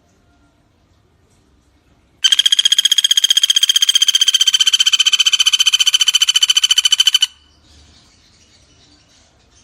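Common flameback woodpecker (pelatuk bawang) giving one long, rapid rattling call of about five seconds, a fast even string of sharp notes that eases slightly down in pitch, starting about two seconds in.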